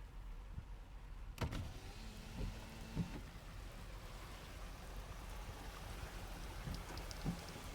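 Rain falling: a steady hiss that starts after a sharp click about a second and a half in, over a low rumble, with a few soft thumps.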